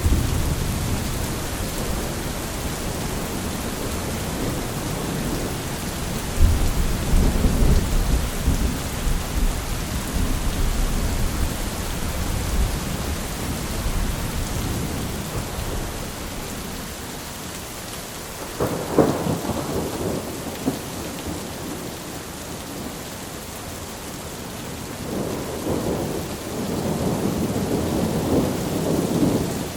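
Steady rain with rolling thunder: a long deep rumble from about six seconds in, a sharper crack at about nineteen seconds, and another rumbling spell near the end.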